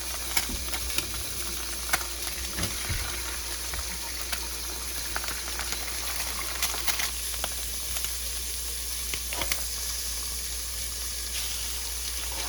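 Moose burger patties and eggs frying in butter on an electric griddle: a steady sizzle with scattered small pops and crackles.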